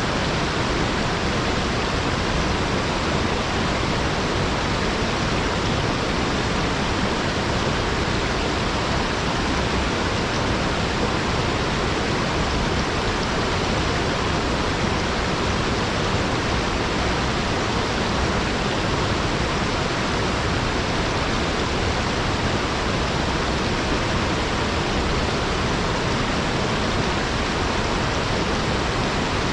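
Water spilling down a rock face in a small waterfall, a steady, unbroken rush and splash.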